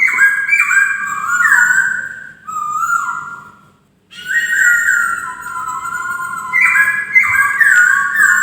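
A poksay (laughingthrush) singing loud, clear whistled notes that step up and down in pitch, in two phrases with a short pause a little before halfway.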